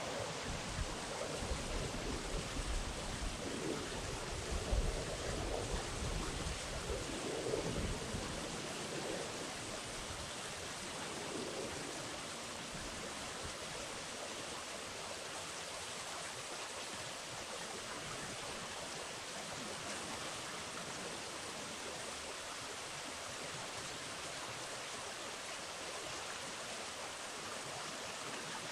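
Steady rushing of river water, with a low irregular rumble over the first eight or nine seconds.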